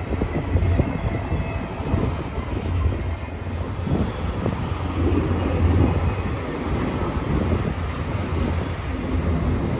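BNSF intermodal freight train's cars rolling past on the main track: a steady rumble of steel wheels on rail with scattered knocks.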